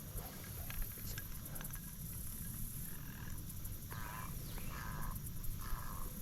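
Three short nasal duck quacks in a row about four seconds in, over a steady high insect drone and a low rumble of wind.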